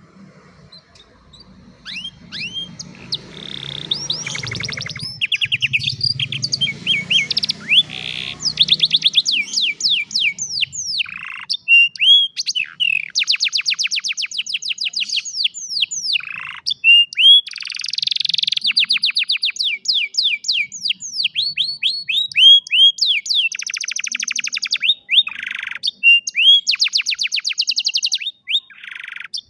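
An old domestic canary singing a long, loud song, starting about two seconds in: fast trills of rapidly repeated sweeping notes alternating with short down-slurred and buzzy phrases.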